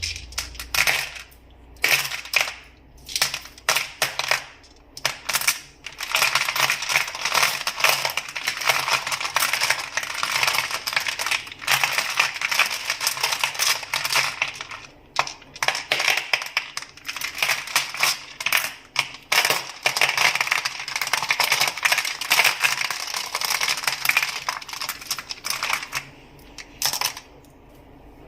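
Crystals tapped and clacked together in quick, dense runs of small hard clicks, broken by brief pauses near the start, about halfway through and near the end.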